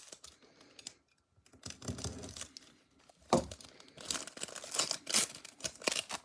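Foil wrapper of a Bowman Platinum baseball card pack being torn open and crinkled, in irregular short bursts with one sharper snap about three seconds in.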